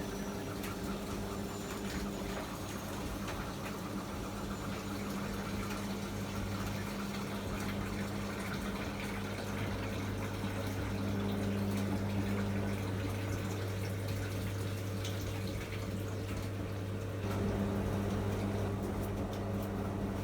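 Miele MedicWash W2585 front-loading washing machine with water running into and through the drum over a steady electrical hum, getting a little louder near the end.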